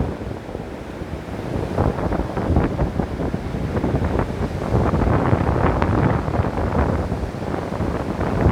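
Ocean waves crashing on a beach: a continuous, low-heavy wash of surf that swells louder about two seconds in.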